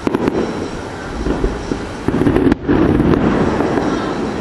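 Aerial fireworks bursting overhead. A few sharp cracks come just after the start, and a louder, denser stretch of bursting follows about two to three seconds in.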